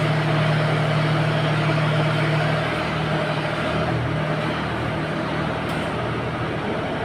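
An engine running steadily, its note dropping and growing less even about three seconds in.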